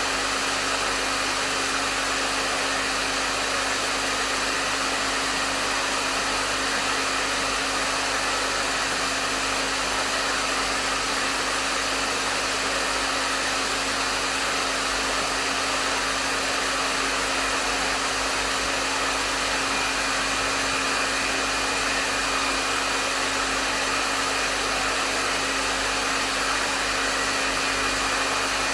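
Hair dryer running steadily at medium setting: a continuous rush of blown air over a steady motor hum, with no change in pitch or level.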